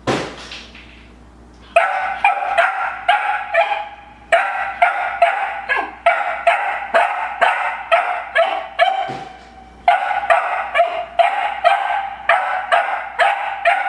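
A puppy barking over and over at a new bone, treating it as an enemy: rapid, high-pitched barks about two or three a second, starting about two seconds in after a short sharp noise, with a couple of brief pauses.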